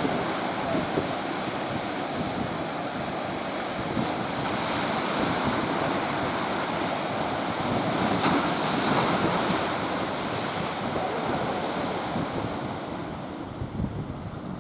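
Big ocean waves breaking and rushing, with wind buffeting the microphone. The surf swells loudest about eight to ten seconds in, then eases.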